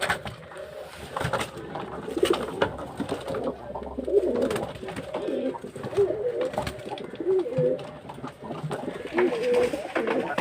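Domestic pigeons cooing over and over, with scattered short sharp clicks among the coos.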